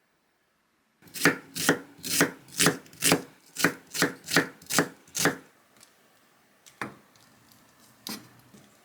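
Knife chopping on a cutting board: about eleven sharp strokes at a steady pace of two to three a second, then two single knocks near the end.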